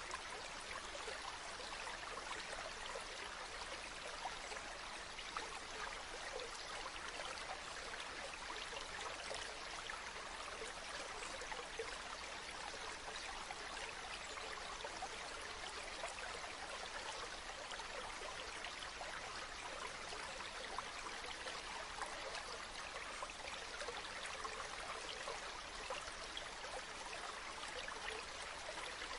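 A river or stream running over stones: a steady, even rush of flowing water with fine splashing and trickling detail.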